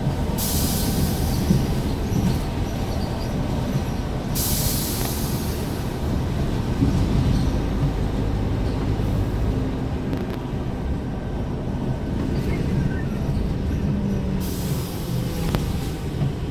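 Scania R410 truck's 13-litre straight-six diesel running under way, a steady low rumble with road noise heard from inside the cab. Three spells of hissing come and go, near the start, around four seconds in and near the end.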